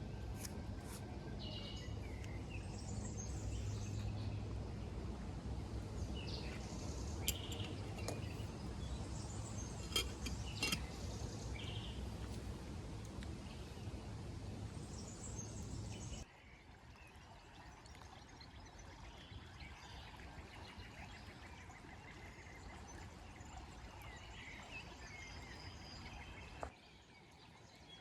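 Outdoor ambience: small birds chirping over a steady low rumble, with a few sharp clicks or knocks. About halfway through, the background suddenly drops much quieter while the chirping goes on.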